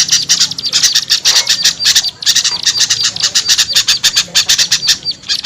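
Agitated chattering and scolding calls of small songbirds, a dense mix of rapid harsh notes with a repeated short high pip, played as a bird-luring call recording.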